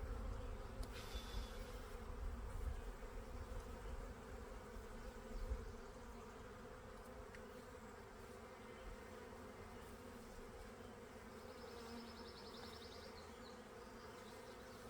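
Honey bees buzzing: a steady hum of many bees from the colony being worked, with low rumbling in the first few seconds.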